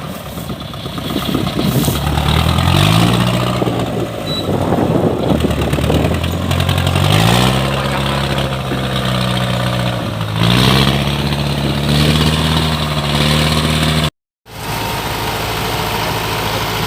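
Kubota DC-105X combine harvester's diesel engine revving up and settling back three times, its pitch stepping up and easing down. After a short break in the sound near the end, it runs steadily.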